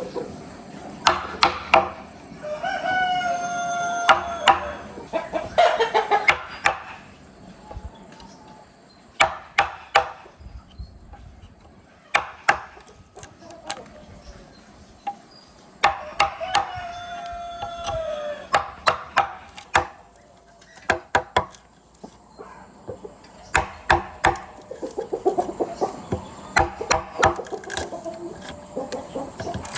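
A rooster crowing twice, each crow long and drawn out, with rougher fowl calls near the end. Sharp knocks sound irregularly throughout, like chopping or hammering.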